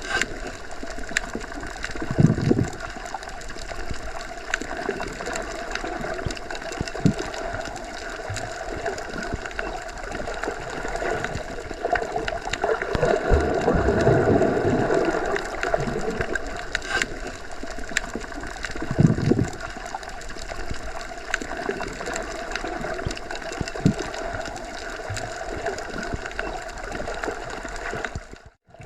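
Underwater ambience as heard submerged in a pool or lake: a steady rush of water with a few brief low thumps. It drops out for a moment near the end.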